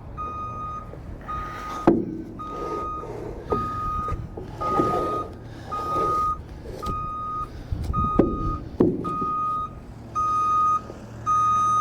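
Truck's backup alarm beeping steadily, a bit more than once a second, over a diesel engine running as the truck chassis creeps backward onto the trailer. A couple of sharp knocks come through, about two seconds in and again about eight seconds in.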